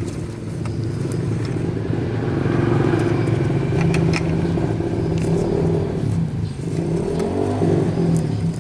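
An engine running steadily, its pitch wavering and shifting about three-quarters of the way through, with scattered light clicks.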